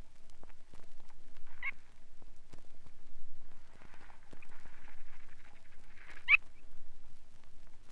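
Curlew sandpiper calls: two short chirrups, about a second and a half in and again near the end, with softer twittering between them, over the crackle of a vinyl record.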